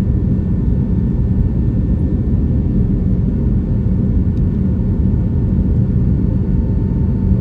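Steady in-flight cabin noise of an Airbus A321neo: a constant low rumble of engines and airflow heard from inside the cabin, with a faint steady tone above it.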